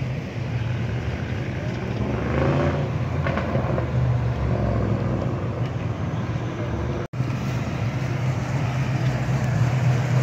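Car engines running at low speed, a steady low rumble as cars drive slowly past. The sound cuts out for an instant about seven seconds in.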